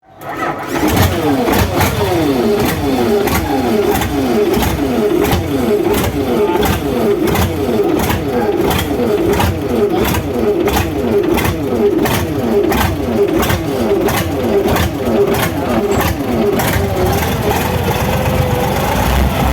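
Isuzu 12PC1 diesel engine running steadily, with a sharp tick repeating about twice a second over the engine note.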